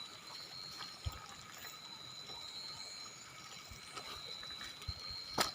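Faint, steady chirring of night insects, several even high tones held without a break, with a couple of soft knocks, one about a second in and a sharper one near the end.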